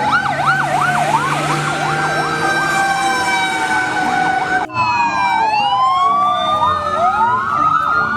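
Several fire-engine sirens sounding at once, fast yelping cycles overlapping slow rising and falling wails. The mix changes abruptly about four and a half seconds in.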